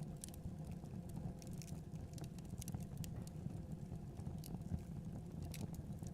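Fireplace fire crackling: irregular sharp pops and ticks over a low, steady rumble.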